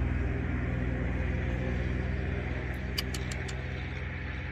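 Small car's engine idling steadily, heard from inside the cabin, with a few light clicks in quick succession about three seconds in.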